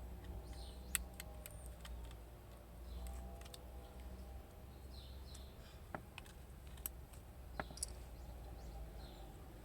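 Faint, sharp clicks and small taps over a low steady hum, with a few short bird chirps in the background.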